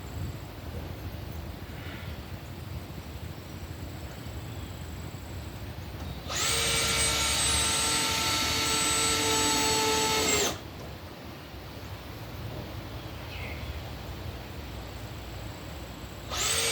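Power drill running at a steady speed for about four seconds, a high steady whine, then starting again near the end, as used to drive screws into the wooden framing of a chicken coop.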